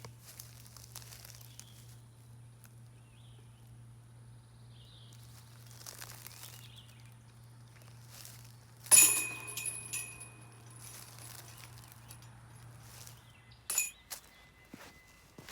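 A putted disc striking a metal disc golf basket: one sharp clank with jingling, ringing chains that die away over about a second, on a putt that does not stay in. A smaller metallic clink follows near the end.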